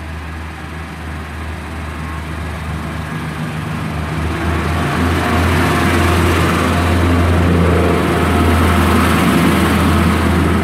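Class 143 Pacer diesel multiple unit pulling away from the station, its diesel engine running with a steady low hum that grows louder from about halfway through as the train gathers speed.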